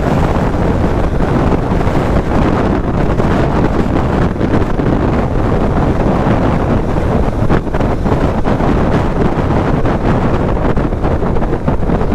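Steady wind noise buffeting the microphone on a moving motorcycle, mixed with the motorcycle's engine and road noise.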